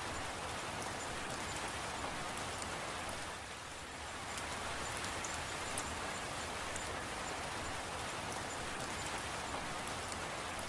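Steady rain falling, with the light ticks of single drops hitting a surface. It dips slightly quieter for a moment a few seconds in.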